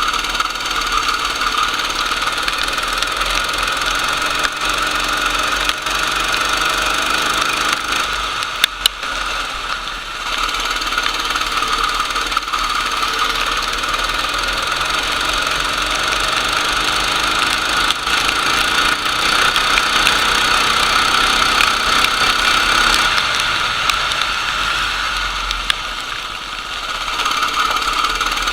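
Go-kart engine running hard at speed. It eases off briefly about nine seconds in and again near the end, then picks up again, with a couple of sharp clicks just before the first dip.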